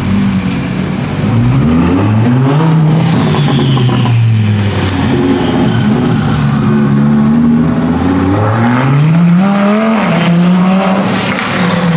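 A car engine revving loudly, its pitch climbing then dropping back twice, as when a car pulls away or gets revved.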